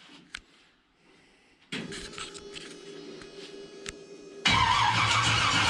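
Starter motor cranking a small-block Chevy V8 with a steady whir. About three-quarters of the way through, the sound jumps abruptly much louder as the ignition is switched on and the engine fires.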